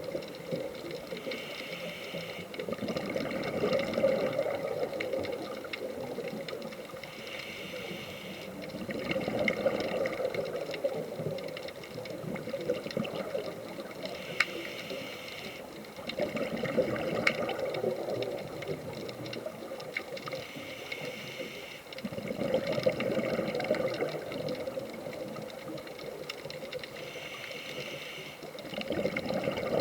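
A scuba diver's regulator breathing underwater in slow, regular cycles. A hissing inhale alternates with a louder bubbling exhale, about five breaths in all.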